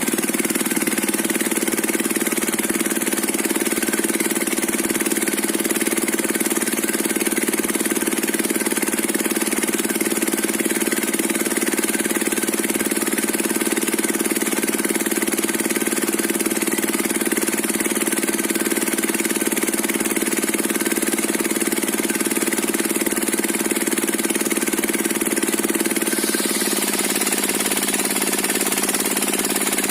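Stationary diesel engine driving a circular sawmill, running at a steady speed. Near the end its tone shifts and a higher hiss joins in.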